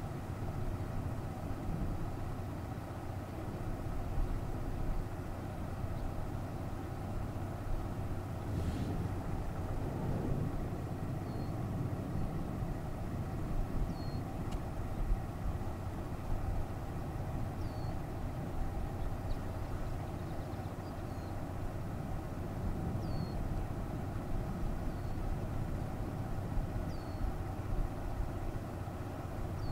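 A vehicle engine idling steadily with a constant low hum, with a bird giving short high chirps every few seconds.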